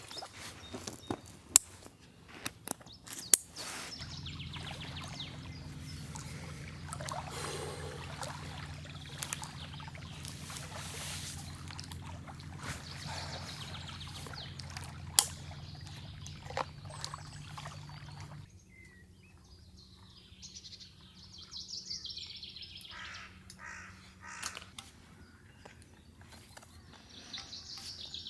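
Forest ambience with birds calling, broken by a few sharp clicks and knocks of camp gear being handled. A steady low hum runs through the middle and cuts off suddenly a little over halfway.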